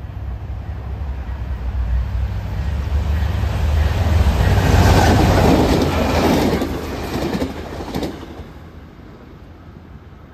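Diesel-hauled Tri-Rail commuter train with bilevel coaches passing close by: a low rumble builds as it approaches and peaks about five to seven seconds in with wheel and rail noise and a few sharp clicks from the wheels over the rails. The noise falls away quickly just after eight seconds as the train clears.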